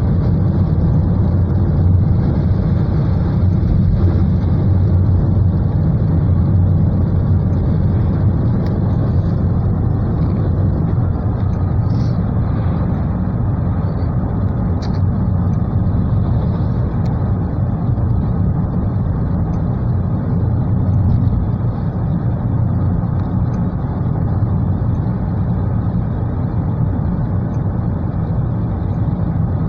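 Steady road noise inside a car driving through heavy rain: tyres on the wet road and rain on the car, strongest in the low rumble.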